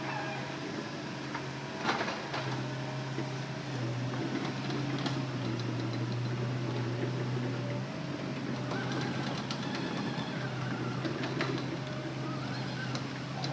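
Hitachi Zaxis excavator's diesel engine running with a steady low drone, heard as if from inside the cab, pulling harder for a few seconds in the middle. There is a sharp knock about two seconds in, and a higher whine joins for a couple of seconds after the middle.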